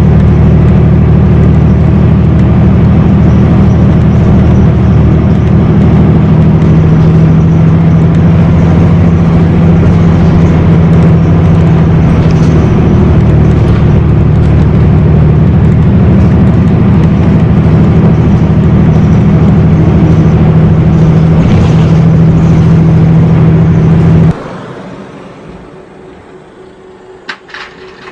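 Steady, loud vehicle engine and road rumble that cuts off suddenly about 24 seconds in, leaving a quieter background with a few sharp clicks near the end.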